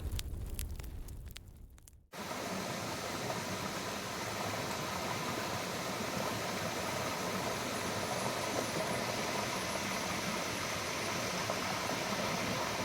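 Steady, even rushing of a waterfall, starting abruptly after a cut about two seconds in. Before it, a fading crackling sound with a low rumble.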